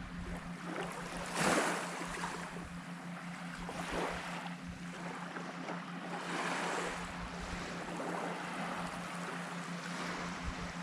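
Small waves breaking and washing up the beach in slow surges, the loudest about a second and a half in, with wind buffeting the microphone and a steady low hum underneath.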